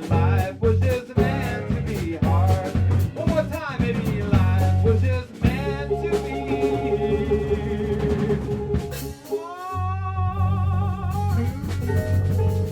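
A live band playing, with drum kit and guitar. The low end drops out for a moment about nine seconds in, then the band comes back in.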